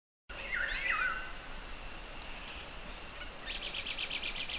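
Songbirds and insects in woodland: a few quick gliding whistled bird notes in the first second over a thin, steady, high insect-like tone, then a rapid even trill of about ten pulses a second from a little past the middle.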